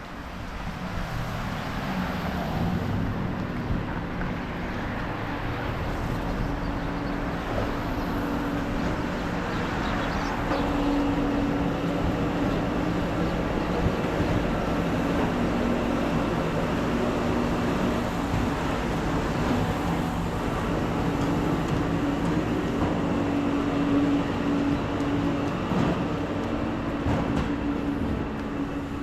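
A motor running steadily nearby, with a low hum that shifts a little in pitch over a rumbling noise.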